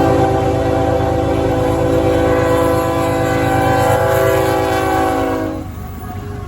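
Amtrak diesel locomotive's air horn sounding one long chord, over the low rumble of the train. The horn cuts off about five and a half seconds in.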